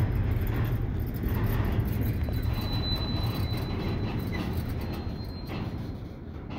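Double-stack intermodal freight cars rolling past: a steady low rumble of steel wheels on rail that slowly fades, with a faint high squeal in the middle.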